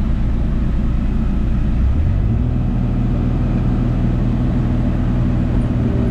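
Diesel engine of a compact excavation machine running under work. Its steady low drone steps up in pitch about two seconds in, as the engine revs higher, and holds there.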